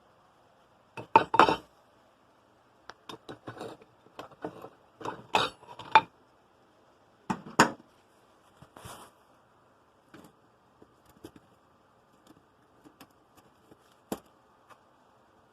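Metal pieces being handled, clanking and clinking together in a string of separate knocks. The loudest come about a second in and in a cluster over the next several seconds, thinning out to a few light ticks near the end.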